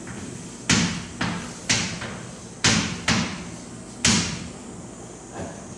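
Six sharp knocks, mostly in pairs, each fading quickly: writing strokes tapping a board as a circuit diagram is drawn.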